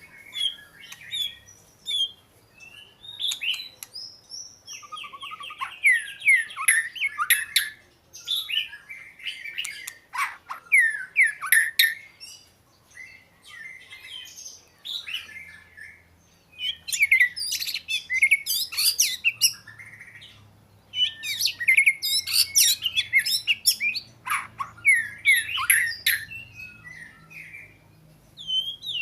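Oriental magpie-robin singing: a varied song of quick whistles, chirps and gliding notes, delivered in phrases a few seconds long with short pauses between them.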